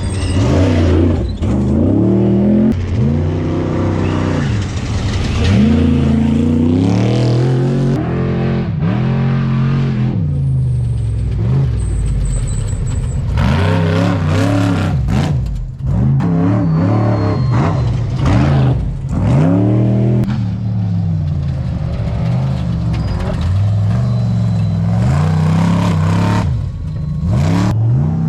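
Trophy truck race engines revving hard on a dirt desert course, the pitch climbing and dropping over and over as the trucks accelerate, lift and shift.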